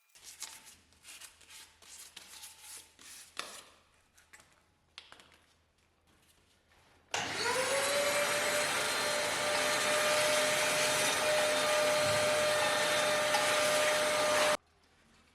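A few seconds of scratchy rubbing strokes, then a small electric motor spins up quickly to a steady whine under a loud rushing hiss, runs for about seven seconds and cuts off suddenly.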